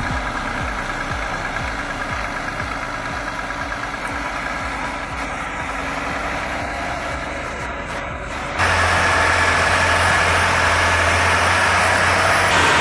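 Heavy diesel machinery running steadily. About eight and a half seconds in, the sound cuts abruptly to a louder, steadier engine hum with a strong low tone.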